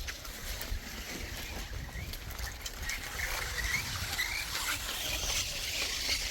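Animal calls: a run of short, high, chirping calls starting about two seconds in, over a steady low rumble.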